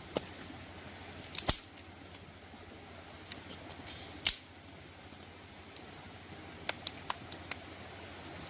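A handful of sharp, irregular clicks and snaps over a faint steady hiss, the loudest about a second and a half in and again near the middle, with a quick cluster of lighter clicks near the end.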